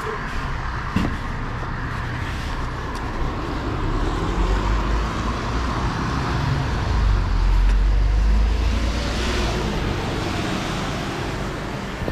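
Bus engine running with road noise, a low rumble that swells in the middle as the engine pulls harder, then eases.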